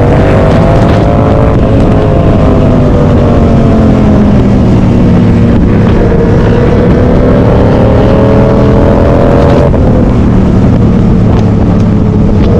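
Loud vehicle engine running close by, its pitch climbing slowly over several seconds, dropping briefly about ten seconds in, then climbing again.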